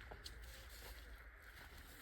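Near silence: faint outdoor background with a low rumble and one or two faint ticks.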